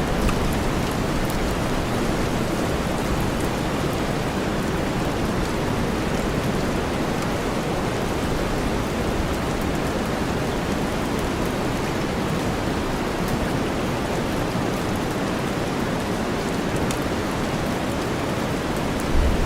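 Steady rain mixed with deep white noise: an even, low-weighted hiss with faint patters of drops. Near the end a low rumble of thunder starts to swell.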